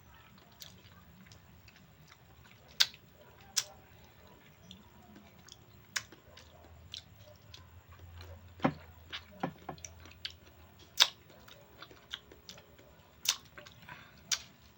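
Someone eating ripe mango, with scattered short clicks and smacks of eating.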